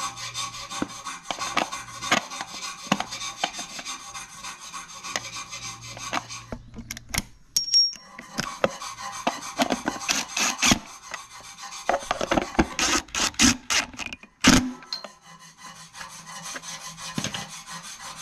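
Hands working small carburetor parts and hoses: continuous rubbing and scraping with scattered clicks and knocks, thickest about two thirds of the way through.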